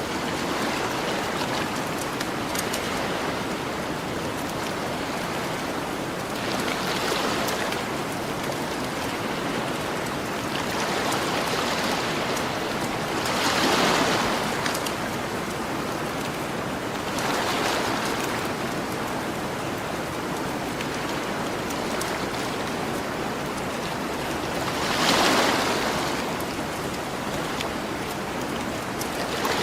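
Ocean waves washing onto a shore over a steady hiss of surf. A wave surges about every four to seven seconds, the biggest in the middle and about 25 seconds in. Faint, scattered campfire crackles lie beneath.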